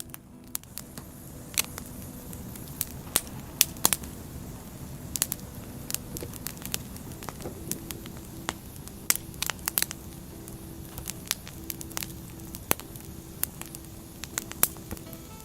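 Wood fire burning: firewood crackling with irregular sharp pops over a steady rushing of the flames. A faint steady tone runs underneath through the second half.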